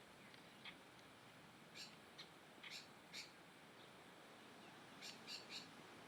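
Small birds chirping: short high calls come in scattered little groups, a few at a time, over a faint steady hiss.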